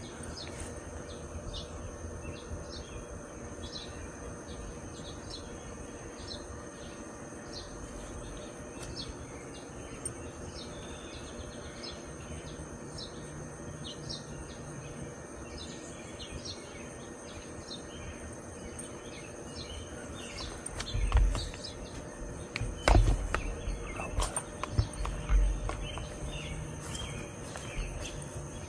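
Outdoor birdsong: many small birds chirping in quick, short notes, over a steady high-pitched insect drone. About three quarters of the way through, several louder low bumps stand out.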